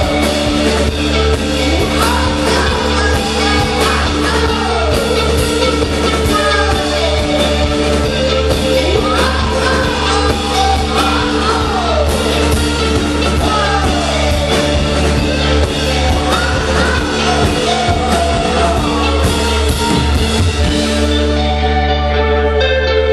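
Rock band playing live, with drums, held keyboard tones, gliding lead lines and some singing or shouting. The drums stop near the end, leaving held organ-like chords ringing.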